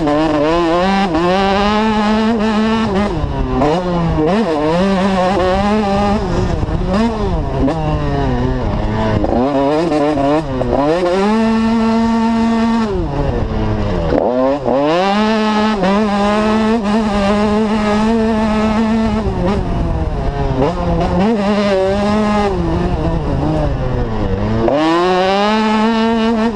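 Motocross bike engine ridden hard around a track: it revs up, drops sharply at each shift or throttle-off, and revs up again over and over. Twice it holds a high, steady pitch for about two seconds at full throttle, around twelve seconds in and again a little later.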